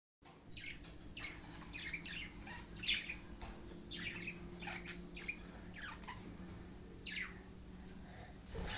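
Budgerigars chattering: a steady stream of short, quick chirps and squawks that sweep downward in pitch, with one louder call about three seconds in. A faint steady hum lies underneath.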